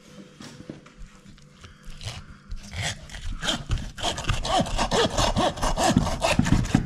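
Hand meat saw sawing through a hog's neck vertebra to take off the head. The strokes start about a third of the way in and become rapid and louder, several a second, in the second half.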